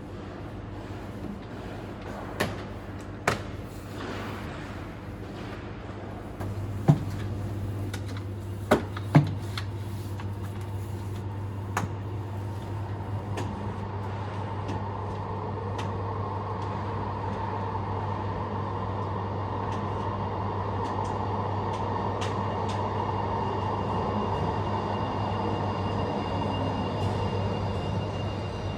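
Tram sounds: a steady low hum with several sharp knocks and clunks, the hum stepping up a few seconds in. About halfway through a broad running noise builds and holds.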